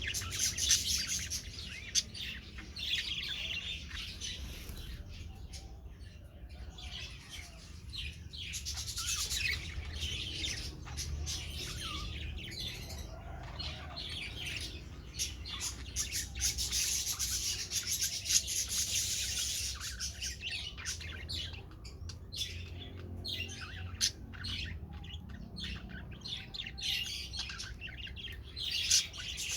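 Budgerigars chirping and chattering continuously in high, busy calls, with many sharp clicks mixed in.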